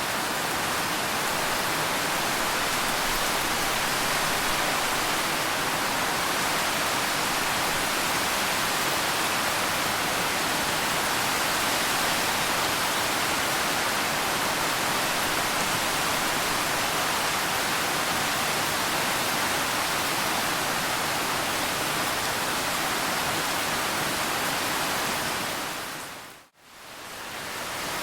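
Steady rain, a dense even hiss with no single drops standing out. Near the end it fades away to almost nothing and quickly back in, as at a join in the recording.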